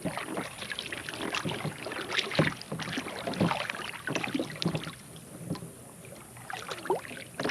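Irregular clicks and knocks from handling gear aboard a fishing kayak.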